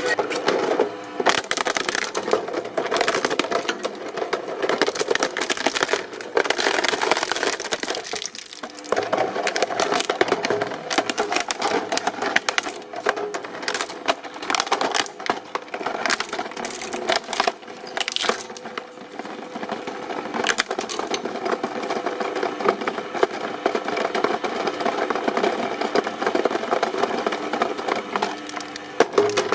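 Shredding machine crushing and tearing material: a dense, continuous crackle of snapping and splintering over a steady motor hum, easing briefly about eight seconds in.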